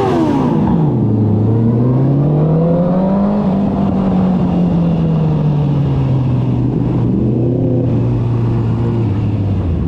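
Motorcycle engine heard while riding: the revs drop steeply in the first second, rise gently over the next couple of seconds, then ease slowly down again, with a brief blip of throttle near the end.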